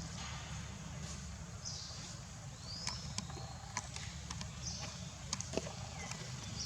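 A few short high squeaks from a baby macaque, one rising and falling about three seconds in, among scattered light taps and clicks, over a steady low rumble.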